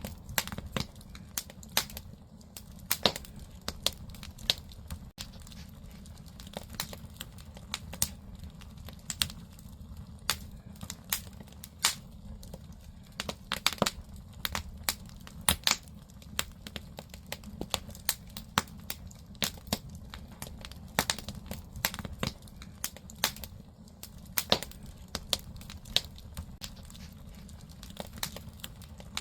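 Firewood burning in a Korean agungi firebox, crackling and popping with sharp irregular snaps over a steady low rumble of the fire.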